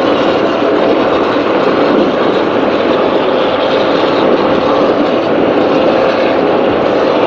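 Offshore racing powerboat's engines running steadily at speed, heard from on board.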